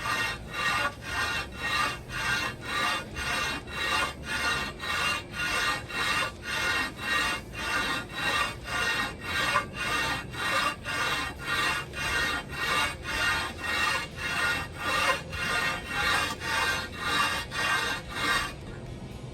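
Ford Model A cast-iron intake and exhaust manifold being rubbed back and forth against an abrasive flat surface to grind its warped mating face flat, in a steady scraping rhythm of about two strokes a second that stops near the end.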